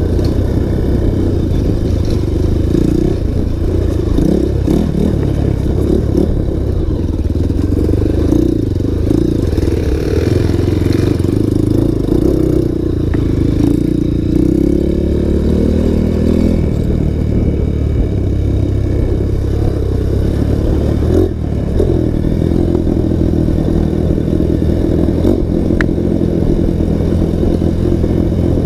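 Single-cylinder four-stroke trail motorcycle running hard, its engine note rising and falling with the throttle. The pitch drops away about halfway through, and there is a short break about three quarters of the way in.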